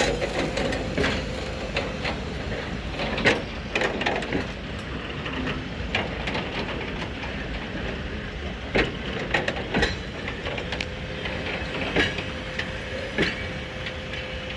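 Freight train wagons rolling by on the track, a steady rumble broken by irregular sharp clanks and knocks from the wheels and couplings.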